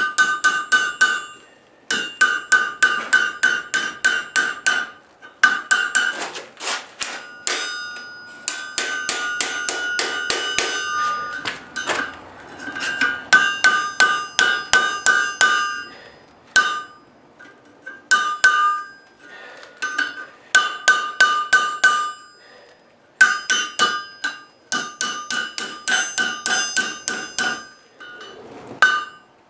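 Hammer blows on hot coil-spring steel over an anvil, struck in quick runs of about four or five a second with short pauses between runs. The anvil rings clearly between the blows.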